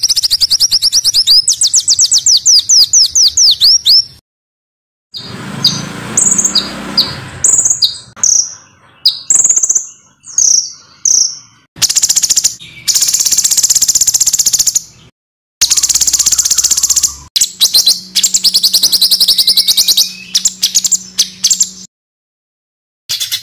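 Small songbirds singing in rapid, harsh runs: a fast trill of repeated high notes, then a string of separate sharp whistled notes, then dense buzzy trills. The recording is cut together from several clips, with sudden breaks of silence between them.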